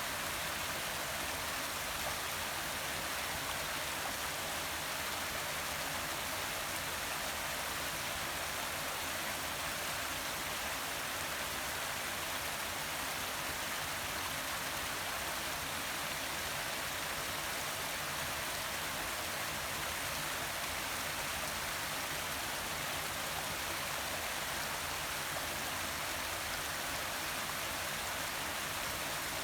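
Forest waterfall: a steady, unbroken rush of falling and running water, strongest in the high hiss.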